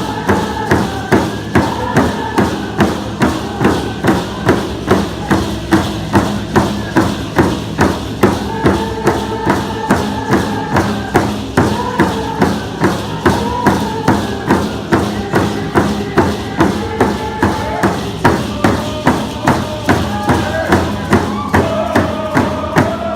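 Coast Salish hand drums beating together in a steady beat of about two strokes a second, under a group of voices singing a traditional song in unison.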